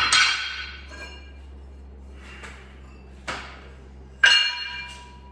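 Metal weight plates clanking against each other and ringing as plates are swapped on a dumbbell: a sharp clank at the start, lighter knocks in between, and the loudest clank a little after four seconds in.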